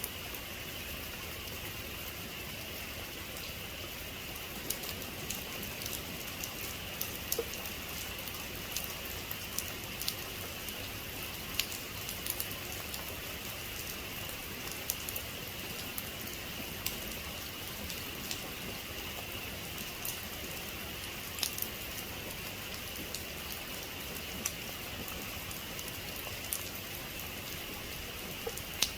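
Steady heavy rain, an even hiss with many individual drops ticking sharply on a hard surface at irregular moments.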